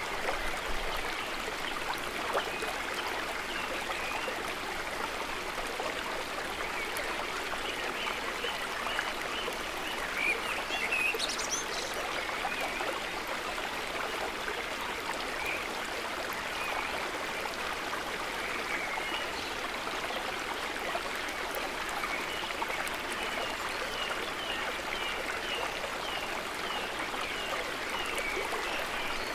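River water running steadily in an even rushing babble, with a quick series of short high chirps near the end.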